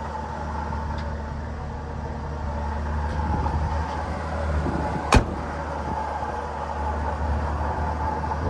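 A 1984 Ford F-150 pickup's engine running steadily, with one sharp click about five seconds in.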